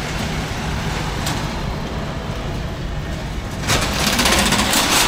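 Steady low rumble of city street traffic, with a loud hissing rush rising about three and a half seconds in and lasting to the end.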